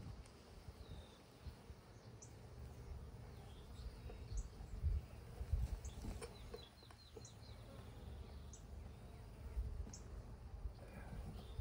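Songbird calling in the background: a short high chirp repeated about every second and a half, with a brief quick trill about six seconds in, over a low rumble.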